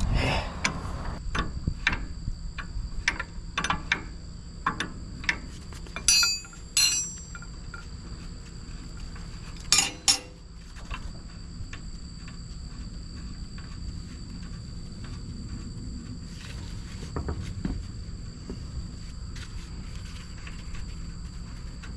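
Metal tools and parts knocking and clinking as they are handled, with a few bright ringing strikes in the middle, over a steady high trill of insects.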